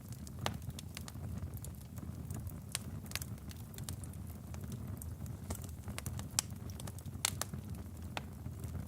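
Wood logs burning in a fireplace: a steady low rumble of flame with irregular crackles and sharp pops, the loudest a little past six seconds in.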